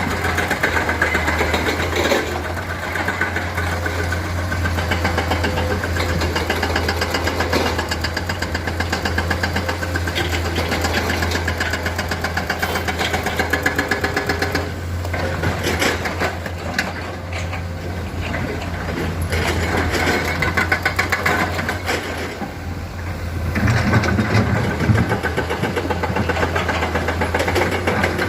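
Heavy diesel engine of a Komatsu excavator running with a steady deep drone that swells and eases as the machine works, with a few sharp knocks.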